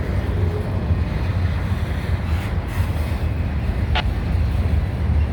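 Freight train rolling past close by: a steady low rumble of wheels on rail as loaded autorack cars go by, with wind buffeting the microphone.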